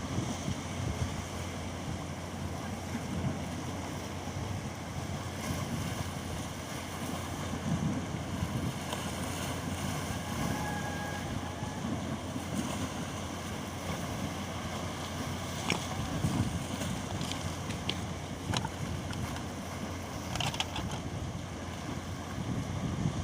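Sea waves washing in, a steady rushing noise, with wind buffeting the microphone; a few brief sharp clicks in the second half.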